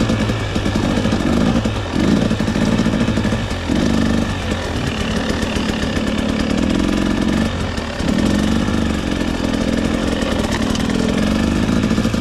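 300cc two-stroke dirt bike engine being ridden on a trail, the throttle easing off briefly and picking back up a few times, about 2, 4 and 8 seconds in.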